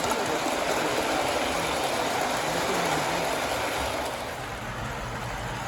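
MTH RailKing O-gauge Berkshire model steam locomotive running on its track, a steady clanking, clunking mechanical rattle that eases off a little about four seconds in, leaving a low hum.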